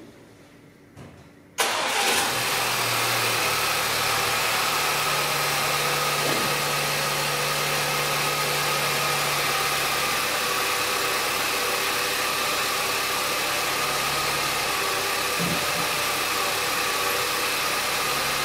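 Audi 1.8 TFSI four-cylinder turbo petrol engine (code CJEB) cranking and starting about a second and a half in, then running at a steady idle. It is being restarted to check whether its misfires come back.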